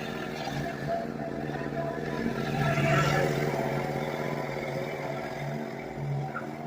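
A small petrol engine running steadily, growing louder about three seconds in and then settling back.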